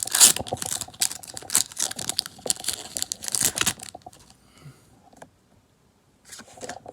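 Foil wrapper of a Pokémon card booster pack being torn open and crinkled, a dense crackle for about the first four seconds, then quieter handling of the cards.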